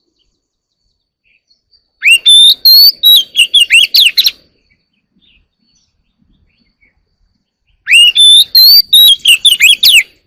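Oriental magpie-robin singing: two loud phrases of quick, sweeping whistled notes, one about two seconds in and one near the end, with a pause between them.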